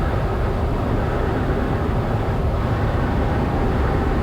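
Steady engine and airflow noise inside a Cessna 172's cabin, the engine throttled back as the plane glides at best glide speed in a simulated engine-out.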